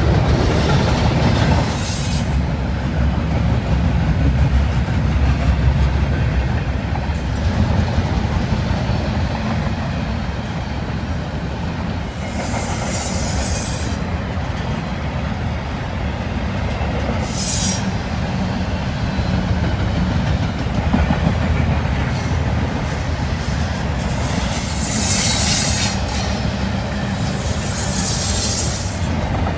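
Train cars rolling past with a steady heavy rumble and squealing wheels. Wind buffets the microphone, and several short high hisses come and go.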